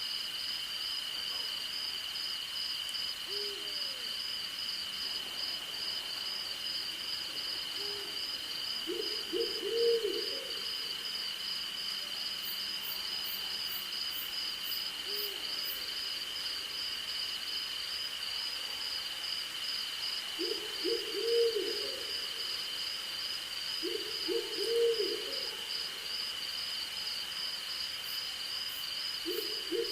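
Night insects keep up a steady, shrill chorus: one continuous high tone with a faster pulsing trill above it. Over it an owl hoots in short runs of several quick, low notes, once about ten seconds in and three more times in the last third, with a few fainter single hoots earlier.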